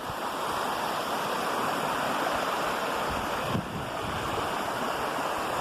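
Steady rush of a waterfall, with low wind rumble on the microphone and a brief dip in level about three and a half seconds in.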